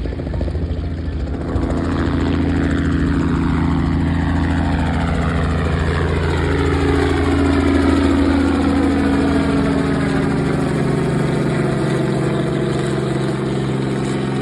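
Ford Tri-Motor's three radial engines running steadily as the aircraft moves past, a droning note with a slowly sweeping whoosh that swells toward the middle and eases off.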